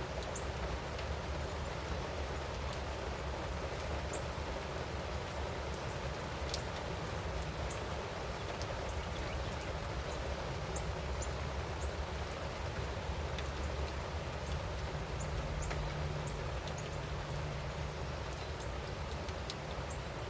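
Steady rain falling, with scattered sharp ticks of drops and a low, steady rumble underneath.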